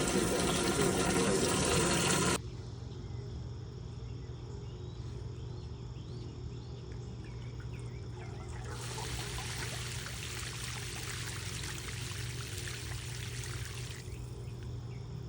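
Sump pump running as it pumps water out of the pit, shutting off abruptly about two seconds in. A steady low hum continues, and water trickles for about five seconds in the middle.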